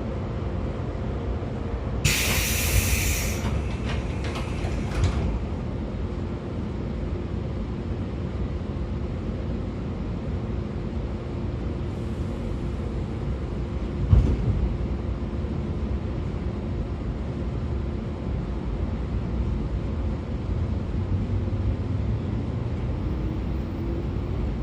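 Running noise of a JR 113 series electric train heard from aboard a motor car, with its MT54 DC series-wound traction motors and gears humming over a steady wheel-on-rail rumble. A brief burst of hiss comes about two seconds in, a single sharp knock about halfway through, and a faint rising whine near the end.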